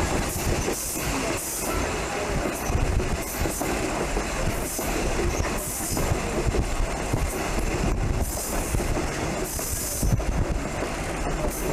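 Passenger train running along the track with a steady rumble and wheels clattering, while short high-pitched squeals come and go.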